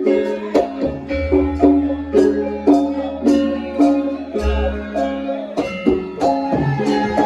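Javanese gamelan playing for a topeng/lengger dance: a steady run of struck metallophone notes over a held drone, with deep gong tones sounding about a second in and again about four and a half seconds in.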